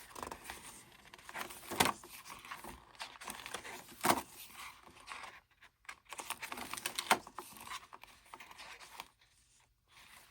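Paper and album inserts rustling and crinkling as they are handled and pages are turned, with a couple of sharper paper snaps about two and four seconds in.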